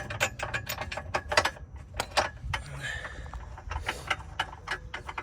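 Hand ratchet wrench clicking in irregular runs as a bolt is tightened.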